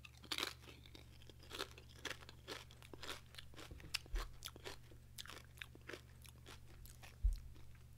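A crisp chip being bitten and chewed, a run of irregular crunches. Two dull thumps, the louder one near the end.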